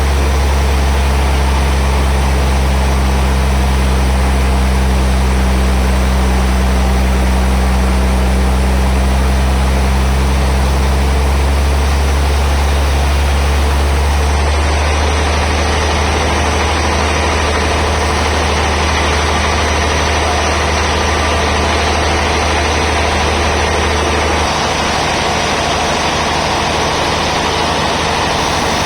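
Band sawmill machinery running steadily: a deep, engine-like hum under a constant wash of mechanical noise. The higher part of the sound falls away about halfway through, and the low hum eases slightly near the end.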